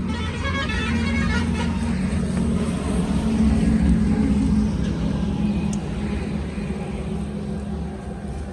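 Low, steady rumble of a motor vehicle on the road, growing louder to a peak about halfway through and then fading as it passes.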